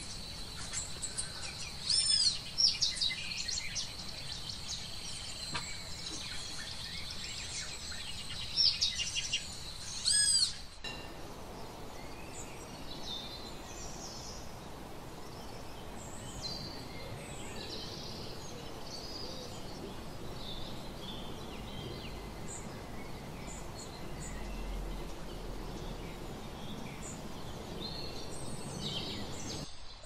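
Wild birds calling outdoors. A first stretch has a steady high whine and loud sweeping calls about two seconds in and again near ten seconds. After an abrupt change at about eleven seconds come scattered short chirps over a steady hiss.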